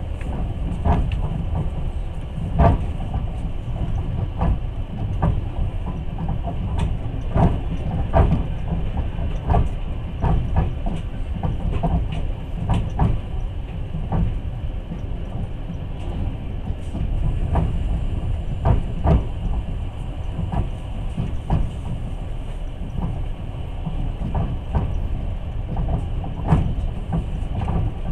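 Passenger train running on rails, heard from aboard: a steady low rumble of the wheels with irregular clicks and knocks over the rail joints.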